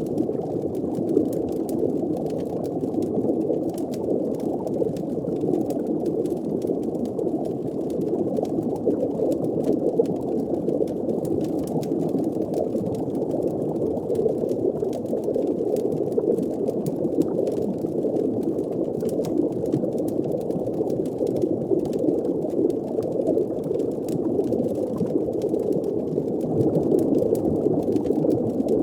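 Steady, muffled underwater ambience of low bubbling and rumbling water, with faint scattered clicks above it.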